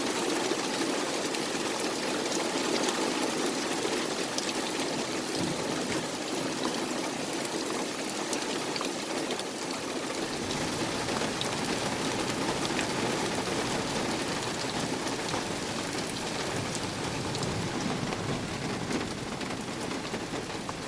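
Very heavy downpour: torrential rain hitting surfaces with a steady, dense hiss.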